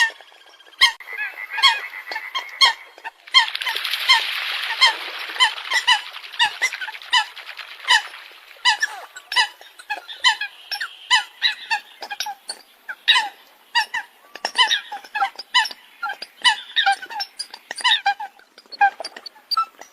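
Eurasian coots calling: a rapid, overlapping stream of short, sharp honking calls, several a second, with a rush of hiss about three to five seconds in.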